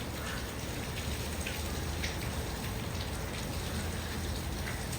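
Steady hiss of falling water with scattered small drip-like ticks.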